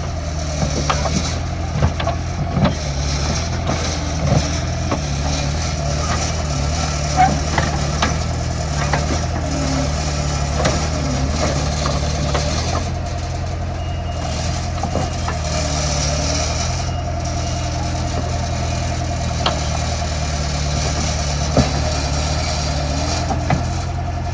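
Heavy construction machine's diesel engine running steadily at low speed, with a faint wavering whine above it and occasional short sharp knocks, several of them in the first few seconds.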